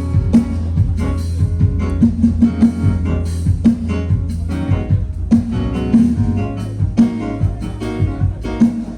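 Band instrumentals playing during a sound check: guitar over a drum kit, with regular drum hits and a strong low end.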